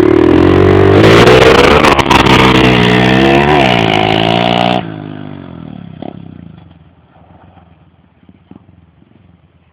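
Pit bike engine at full throttle, its pitch climbing through two or three gear changes, very loud. About five seconds in the sound drops off suddenly and then fades away as the throttle closes or the bike moves off.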